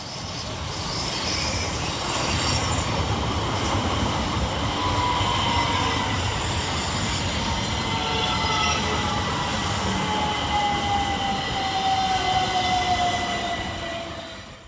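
A pair of coupled Class 377 electric multiple units arriving and slowing, wheels and running gear rumbling over the rails. A whine falls steadily in pitch through the second half as the train slows.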